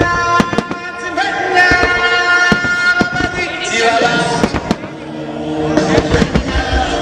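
Fireworks shells bursting and crackling, many sharp bangs in quick succession, over musical-theatre music played for a music-synchronised display.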